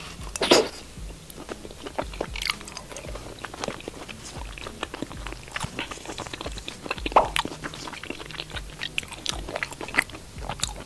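Close-miked chewing of grilled pork intestine: many small crunches and wet clicks at an uneven pace, with a louder bite about half a second in.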